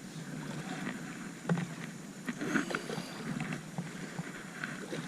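Water splashing and slapping around a small jon boat as a hooked redfish is brought alongside in shallow water, with scattered light knocks and clicks, one louder knock about a second and a half in.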